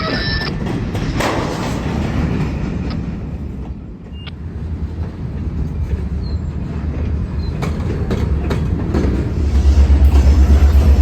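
Diesel locomotive running during freight-car switching, with a steady low rumble. Near the end the engine loads up into a strong, rapidly pulsing low throb.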